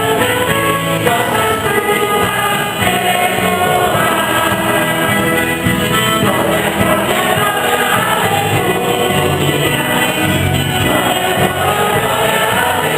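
A church choir sings a Mass hymn with instrumental accompaniment, holding steady sustained notes that move from chord to chord without a break.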